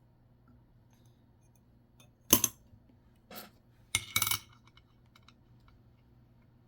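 Nickels being handled at a desk: three short bursts of clicking and clinking, about two, three and four seconds in.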